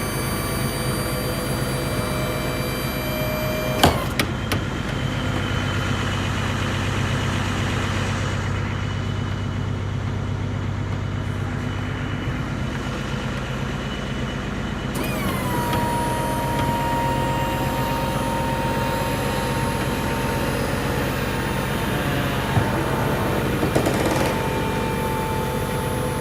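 Truck engine idling steadily, with a motor whine over it. After a sharp click about four seconds in, the whine drops out; it starts again about fifteen seconds in with a falling whine, then holds steady. A few small clicks come near the end.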